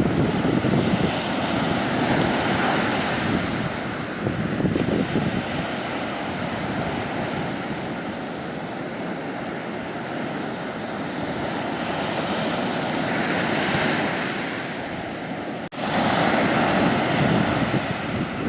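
Mediterranean sea waves washing onto a sandy beach, the surf swelling and easing in slow surges. There is a momentary dropout about three-quarters of the way through, then the surf comes back louder.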